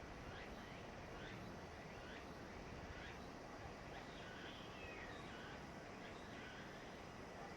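An animal calling faintly over steady background noise: short notes about once a second, each sliding down in pitch.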